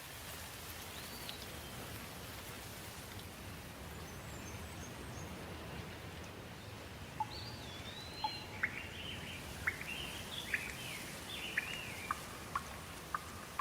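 Steady rain falling, with birds starting to call about halfway through: bending chirps and a run of sharp, short chip notes over the rain.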